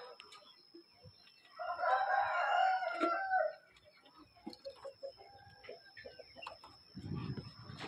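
A bird's call, one long pitched call of about two seconds starting about a second and a half in, followed near the end by a low rustling noise.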